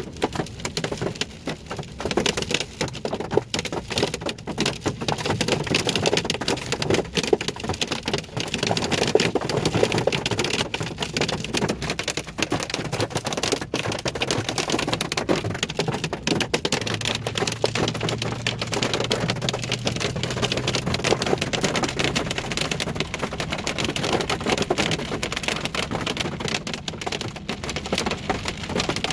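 Rain and hail hitting a vehicle's roof and windshield as a dense, steady patter of clicks.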